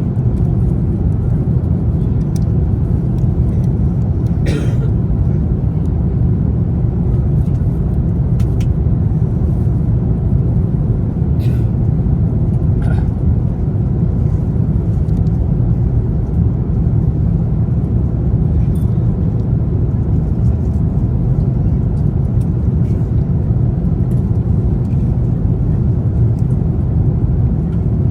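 Steady low cabin rumble of an Airbus A350-900 airliner in flight, the noise of its Rolls-Royce Trent XWB engines and the air rushing past the fuselage heard from an economy seat, with a few faint clicks.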